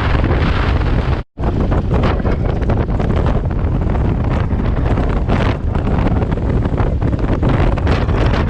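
Wind rushing and buffeting over the microphone of a BMW R1200GS motorcycle ridden at road speed, a loud, dense rush. It cuts out for an instant about a second in.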